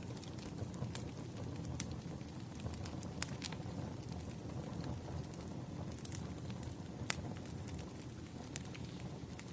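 Wood fire burning: a steady low rumble of flames with sharp, irregular crackles and pops from the logs, one to three a second.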